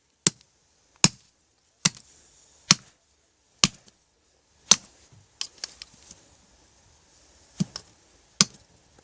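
Hammer striking a fire-burnt microphone to break it open: a run of sharp blows a little under a second apart, with a few lighter taps and a short pause before two last blows. A faint hiss comes from the still-hot microphone sizzling on the cold ground between blows.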